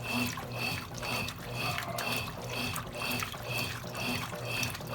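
Consul Cargo 8 kg washing machine running with water in the drum, with a rhythmic pulsing sound repeating about three times a second.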